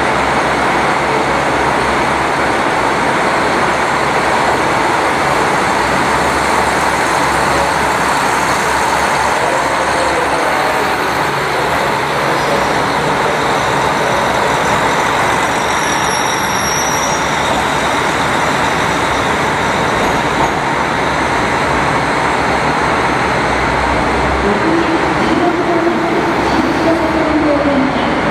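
Train at a station platform, running with a steady, loud rumble and hiss. A wavering tone comes in near the end.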